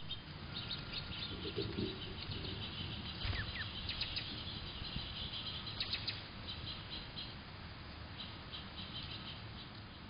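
Small songbirds chirping: bursts of rapid, high chirps repeat throughout, with a couple of quick downward-sliding notes about three seconds and six seconds in.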